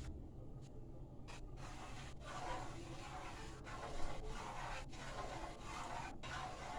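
Scraping and rubbing of a utensil in a cooking pot, steady with short breaks about once a second.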